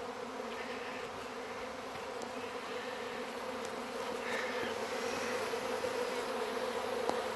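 Loud steady buzzing hum of a honey bee swarm in flight, thousands of bees leaving the hive together, swelling slightly about halfway through.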